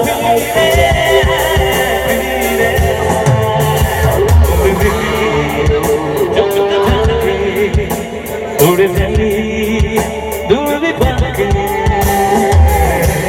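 Live band playing an instrumental passage of a Bollywood song: drum hits under a sustained, gliding melody line, with no sung words.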